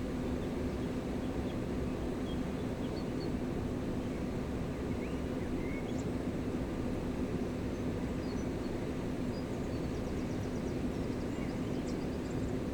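Gave de Pau river flowing with a steady low rush of water, with a few faint bird chirps over it.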